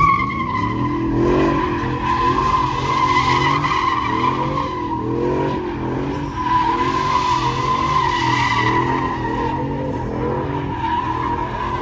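A truck spinning its tyres in a burnout: a steady tyre squeal runs throughout while the engine revs rise and fall over and over.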